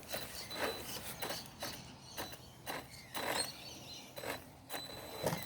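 Electric RC trucks shoving against each other as one tries to flip the other: an irregular clicking and ratcheting from the drivetrain, a few clicks a second. The pushing truck doesn't have the power to flip the other.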